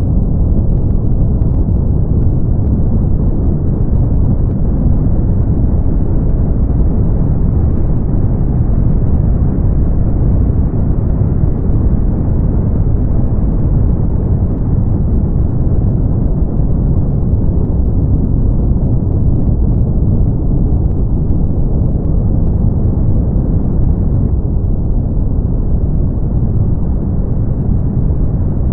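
Steady brown noise: a deep, even rumbling hiss, strongest in the bass and dying away above the mid range, unchanging throughout.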